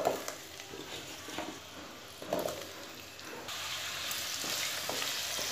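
Pumpkin cubes dropped by hand into hot oil in a kadai, with a few soft knocks as they land. Frying sizzle that builds up about halfway through, then holds steady.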